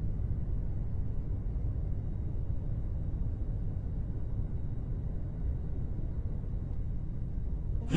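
Steady low rumble of an airliner cabin in flight, the jet engines' drone with no distinct events.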